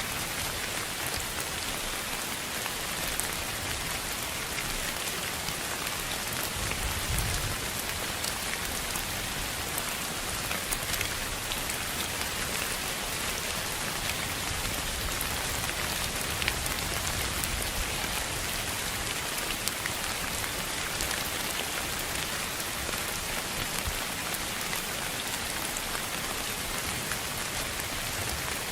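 Steady rain-like noise sold as pink noise for sleep: an even hiss with faint scattered ticks, and a brief low rumble about seven seconds in.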